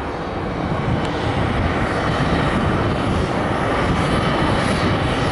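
Jet engines of an arriving United Airbus A321neo, a steady rushing roar that slowly grows louder.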